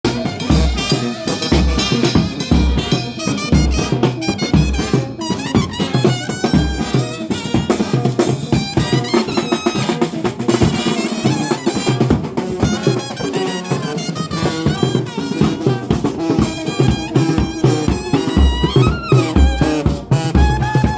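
Brass band playing a tune, with bass drum and snare drum keeping a steady beat under the horns.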